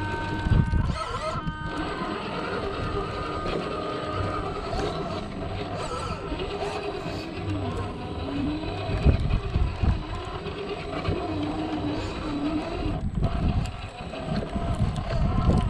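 Traxxas TRX-4 RC crawler's electric motor and gear drive whining, the pitch rising and falling with the throttle, with occasional knocks as the truck climbs over rock.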